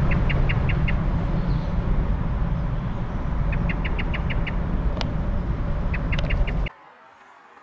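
A bird calls three quick runs of short, evenly spaced high notes over a loud, low rumbling noise. The sound drops away abruptly near the end.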